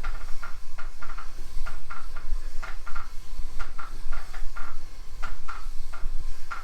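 Kent Moore barrel lap working in an oiled main bearing bushing in Harley-Davidson K-Model crankcases: metal rubbing and scraping in short repeated strokes, about three a second, as the bushing is lapped toward true alignment.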